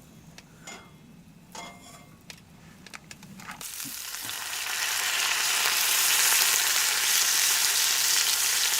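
A few small handling clicks, then about three and a half seconds in, meat goes into a hot iron frying pan and a sizzle swells over a second or two into a loud, steady frying sizzle.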